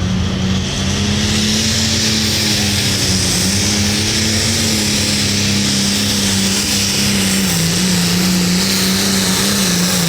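Hot farm pulling tractor's turbocharged diesel engine held at high revs under load, a loud, steady engine note that wavers slightly, with a high hiss over it.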